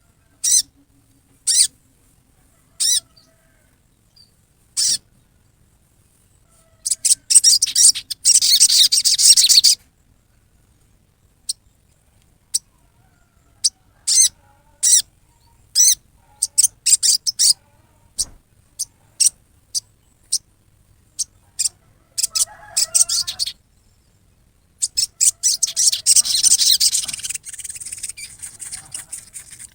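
Sogon bird giving its harsh riwikan call: sharp, high single notes a second or two apart, breaking into long rapid chattering runs about 7 seconds in, about 22 seconds in, and again from about 25 seconds on.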